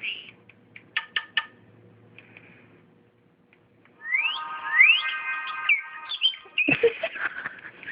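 Bird-like chirps and whistles: several quick upward-sweeping chirps over steady tones, starting about four seconds in after a few short clicks.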